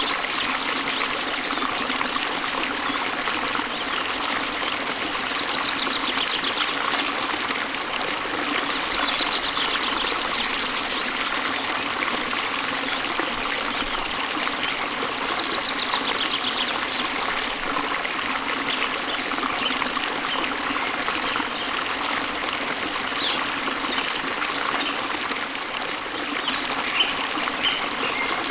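Waterfall water running in a steady, even rush, with a bird trilling briefly a few times and chirping near the end.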